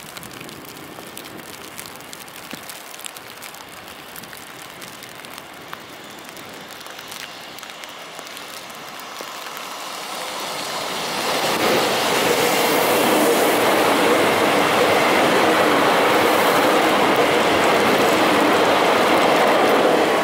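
Electric commuter trains drawing near, faint at first. About ten seconds in the noise swells and stays loud and steady as a Z 50000 Francilien electric multiple unit runs past close by, its wheels running on the rails.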